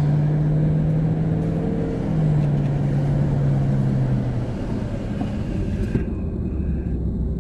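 Car driving in traffic, heard from inside the cabin: a steady low road and engine rumble with an engine hum that drops slightly in pitch about two seconds in and fades out a couple of seconds later.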